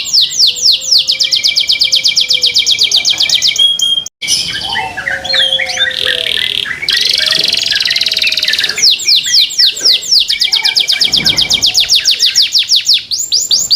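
Canary singing loudly: fast trills of repeated falling notes, a brief gap about four seconds in, then a stretch of varied chirps and a buzzy note before the rapid trills return.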